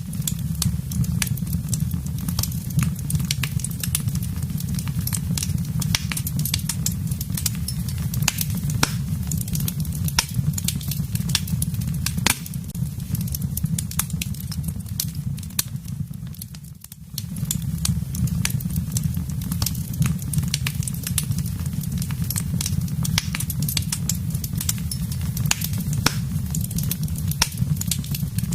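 Wood fire burning in a fireplace: a steady low rumble of flames with many irregular sharp crackles and pops. The sound drops away for a moment a little past halfway, then resumes.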